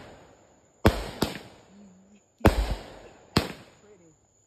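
Fireworks going off in a quick series of four loud bangs, two close pairs, each trailing off in a short echo.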